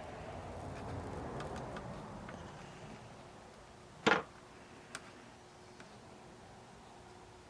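Soft handling and rustling, then one sharp clack of a hard object about four seconds in, followed by a lighter tick a second later.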